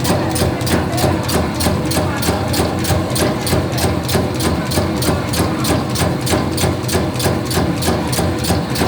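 Meatball forming machine running: a steady motor hum with a regular clack about four times a second.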